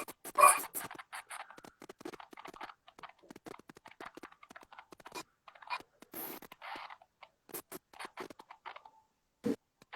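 Irregular scratching, scraping and tapping noises, with a sharp knock at the start and another strong one near the end.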